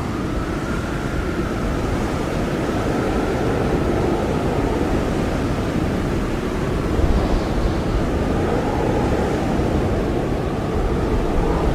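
Blizzard wind blowing hard and steadily, a deep rushing with a faint wavering whistle above it and slight gusts swelling and easing.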